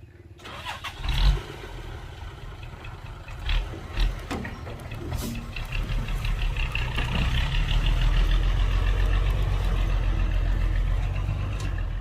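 Heavy diesel engine of earthmoving machinery cutting in suddenly, with a few heavy knocks in the first few seconds, then building to a steady, loud run.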